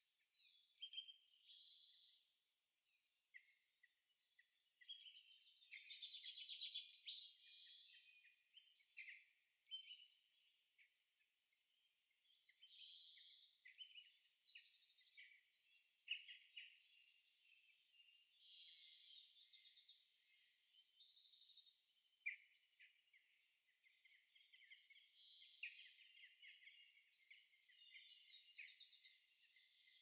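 Faint songbirds singing, several songs overlapping in bursts of quick high trills and chirps with short quiet gaps between them.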